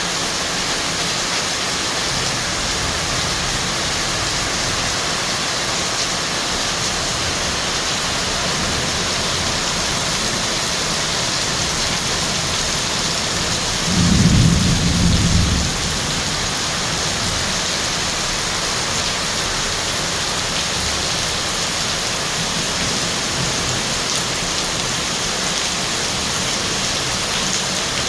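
Heavy rain pouring down steadily, with one low clap of thunder about halfway through that lasts a couple of seconds.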